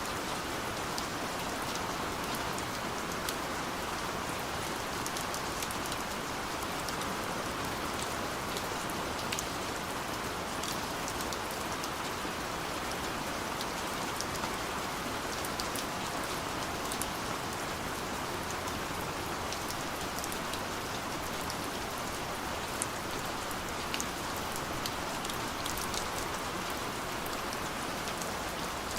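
Steady rain falling, an even hiss with many small drops ticking on surfaces.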